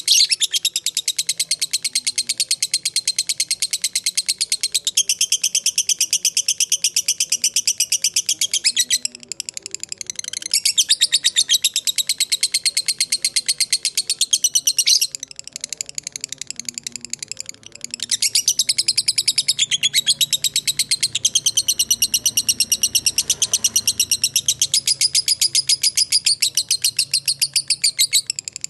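Lovebird giving the long, rapid chattering trill that keepers call "ngekek panjang": long runs of fast, evenly repeated high notes, with a couple of short breaks before the chatter starts up again.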